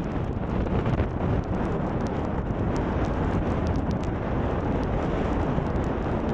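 Wind buffeting the microphone with crackling, over a steady low roar that fits an airliner's jet engines.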